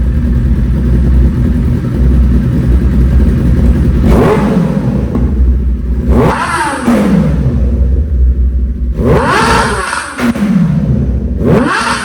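Kawasaki ZX-10R's inline-four engine through an Austin Racing aftermarket exhaust, idling and then revved hard about four times, each rev rising steeply in pitch and dropping back to idle.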